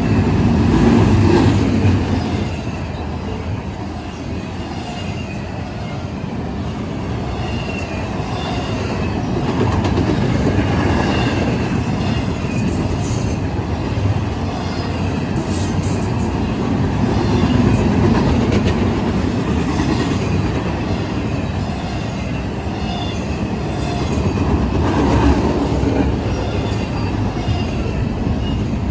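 Freight train's cars rolling past: a steady rumble of wheels on rail that swells and eases, with a faint high wheel squeal and a few clicks.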